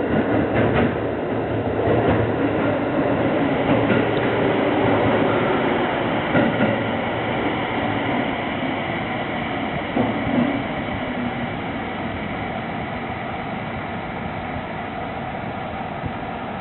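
Tsukuba Express electric train running on the rails: a steady rumble and hiss of wheels and motors with a few scattered knocks from the track, growing gradually quieter over the second half.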